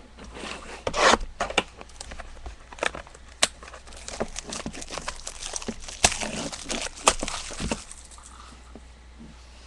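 Trading card boxes and packs being torn open and cards handled: irregular tearing, crinkling and rustling of paper and wrapper, with sharp clicks and snaps.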